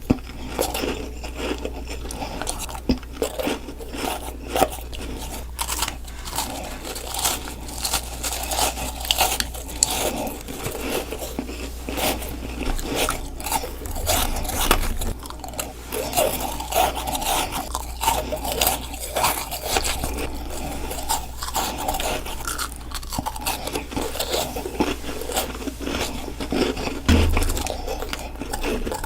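Ice being bitten and chewed close to the microphone: a continuous run of crisp crunches and crackles, one bite after another.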